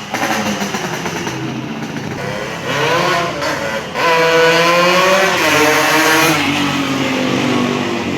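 Yamaha RX-King two-stroke single revving through an underslung galvanised expansion-chamber exhaust. It runs low at first, gives a short throttle blip about three seconds in, then a louder, longer rev about four seconds in that is held for about two seconds before dropping back.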